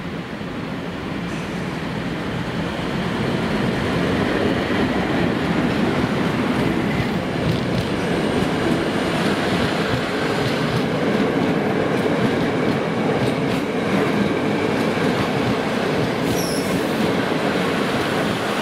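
Passenger train hauled by an EP07 electric locomotive rolling past close by: its rumble swells over the first few seconds, then holds steady as the coaches pass, with light wheel clicks over the rail joints. Near the end comes a brief high squeal.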